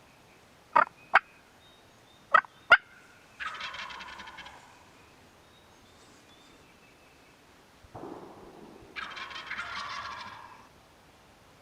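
Wild turkey gobbler gobbling twice, each rattling gobble about a second long, the two about five seconds apart. Before them come two pairs of short, sharp, louder calls.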